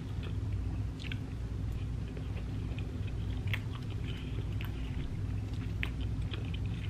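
Close-up mouth sounds of chewing a mouthful of Spanish rice and parmesan-crusted salmon: soft, scattered wet clicks and smacks, over a steady low hum.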